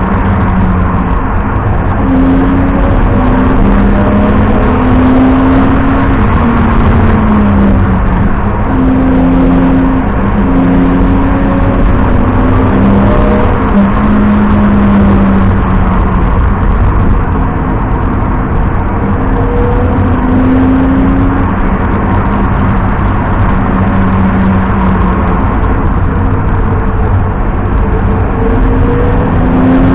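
BMW 330i E90's straight-six engine accelerating and shifting, its pitch repeatedly climbing and then dropping at each gear change. Underneath is a heavy, constant low rumble of tyre and road noise on wet tarmac.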